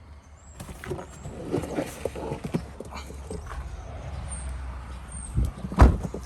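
Chukars scuffling about, with a run of short knocks and a loud thump near the end.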